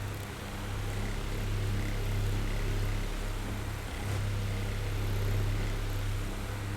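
Oscillating electric fan running: a low motor hum under an even rush of air, the level swelling and falling as the fan head sweeps toward and away.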